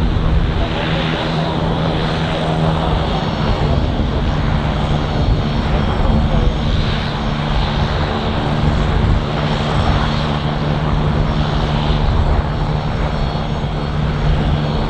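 An aircraft's engines running steadily and loud, a continuous rumble with a steady low hum.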